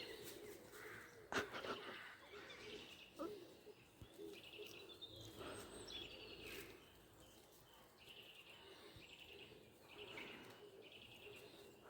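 Faint woodland birdsong: small birds chirping in short repeated trills, with a single soft click about a second and a half in.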